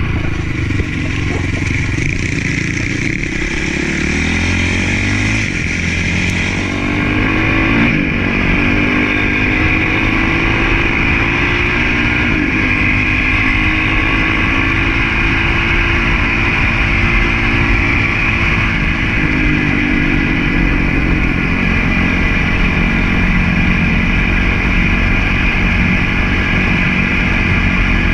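Honda CRF450 motocross bike's four-stroke single-cylinder engine being ridden hard. Its pitch climbs steadily over the first several seconds as it accelerates, then holds at a fairly even speed with small rises and falls.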